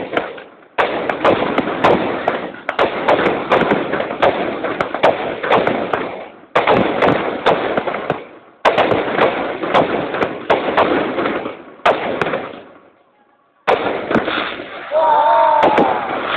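Aerial fireworks bursting in the sky, each loud bang followed by dense crackling that dies away over a few seconds. Bursts come several seconds apart, with a brief lull shortly before the last one.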